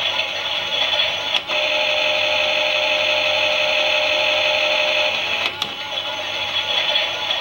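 Klein toy Miele washing machine whirring as its small motor turns the drum, the pitch wavering. A click comes about a second and a half in, then a steadier whine, and another click near five and a half seconds.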